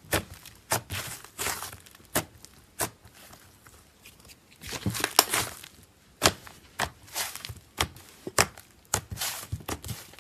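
Slime being squeezed and poked by hand: irregular sharp sticky clicks and crackles, with a denser run of crackling about five seconds in.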